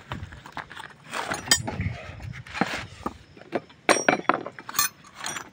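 Metal tools and parts clinking, knocking and scraping as they are handled during a brake pad job: irregular sharp clinks with short scrapes between.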